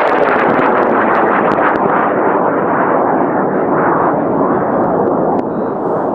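Aerotech N2000 high-power rocket motor roaring as the rocket climbs away: a loud, dense rushing noise with some crackle that grows duller and slowly fades toward the end.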